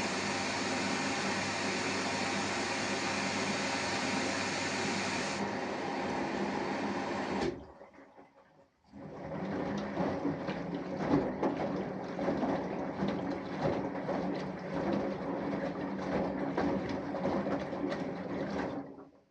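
Samsung Eco Bubble inverter washing machine running: a steady hum with water noise that cuts off about seven seconds in, then after a short gap an uneven sloshing of water and laundry in the drum that stops abruptly near the end.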